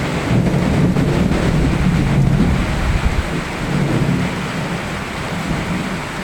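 Steady rain with a low, rolling rumble of thunder that swells in the first few seconds and slowly dies away.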